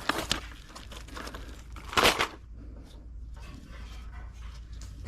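Handling noises as new intake manifold gaskets are fitted by hand: short rustling and scraping sounds, with the loudest burst about two seconds in.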